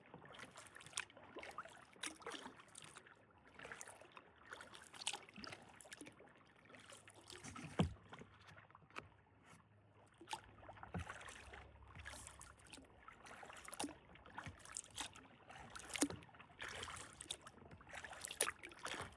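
Kayak paddle dipping and pulling through calm water, with small irregular splashes, drips and light knocks.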